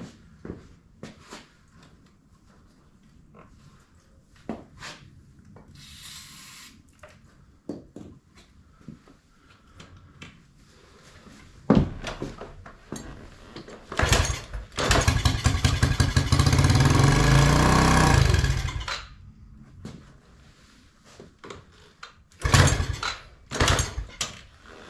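A short hiss of aerosol starting fluid, then the used Yamaha TT-R90E's small single-cylinder four-stroke engine is cranked and fires on the starting fluid, running loudly for about four seconds before dying. Two short loud bursts follow near the end, with light clicks and knocks of handling throughout.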